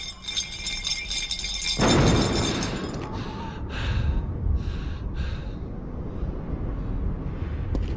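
A held musical chord, then about two seconds in a sudden heavy crash followed by a long low rumble with scattered crackles: a stone wall bursting apart and crumbling.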